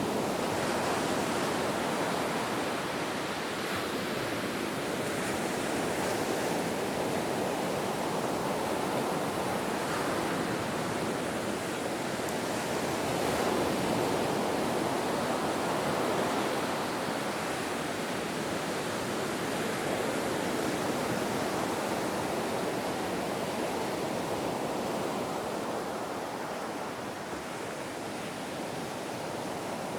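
Ocean waves washing continuously, a steady surf rush that swells and eases slowly over several seconds.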